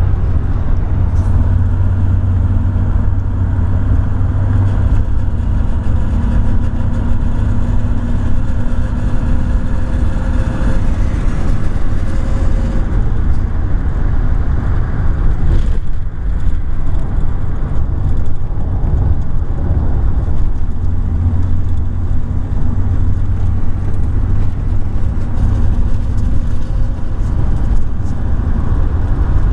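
Toyota T100's 3.4-litre V6 running with a steady drone, its pitched tone fading a little before halfway and returning later on. The engine carries a rattle that shows up at about 2000 rpm and is worse under load, cause unknown to the owner.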